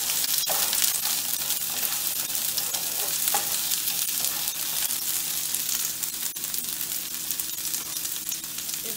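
Chopped onion, ginger and garlic sizzling and crackling in hot oil in a frying pan, stirred with a spatula that scrapes and taps the pan now and then.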